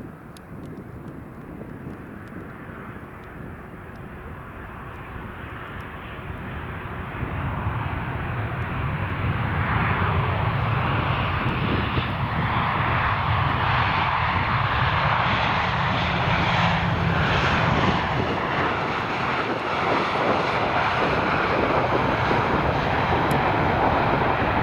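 Jet aircraft engines growing louder over several seconds, then running loud and steady as the plane passes close by.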